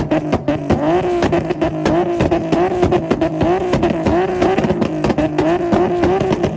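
Infiniti VQ V6 held on a two-step launch rev limiter. The revs bounce up again and again, about twice a second, with sharp exhaust pops and crackle throughout.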